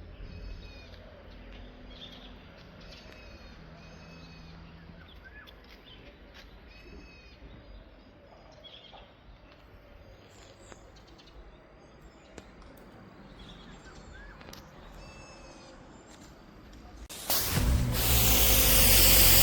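Birds calling with short repeated chirps over a low steady hum, then about 17 s in a pressure washer's spray starts with a loud, even hiss that stays on.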